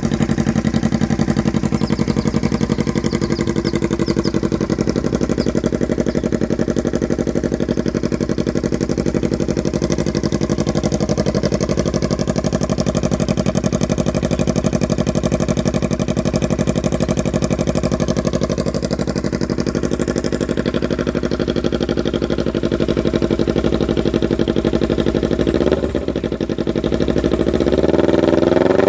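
Kawasaki Ninja 250R parallel-twin engine idling steadily through a short aftermarket slip-on exhaust. Near the end the throttle is opened and the revs start to climb.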